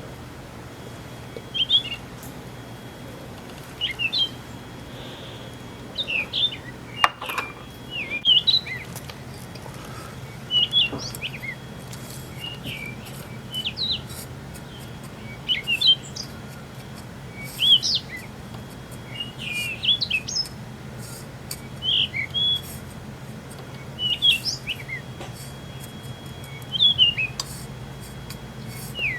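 A bird chirping short phrases of quick rising and falling notes, about one phrase every two seconds, over a faint steady low hum.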